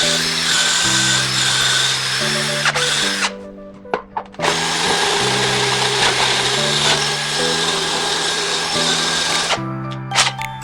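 Power drill running in two long runs, with a pause of about a second around three seconds in and a stop near the end, over background music.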